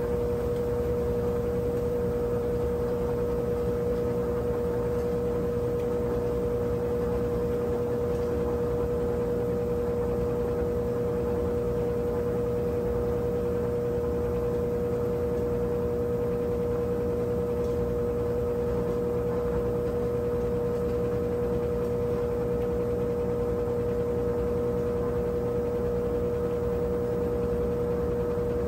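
Brastemp 17 kg washing machine running steadily: a constant electric hum with a strong, high steady tone and no rhythm of agitation.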